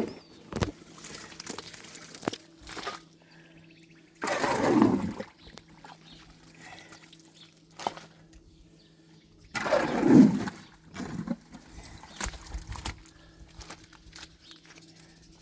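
Water splashing in heavy surges about every five or six seconds, as from sewage muck being sluiced or dumped, over a steady low hum, with small knocks in between.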